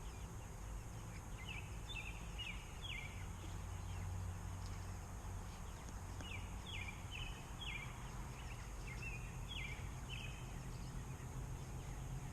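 Cornish Cross meat chickens peeping: short falling calls in clusters of two to four, over a low, steady outdoor rumble.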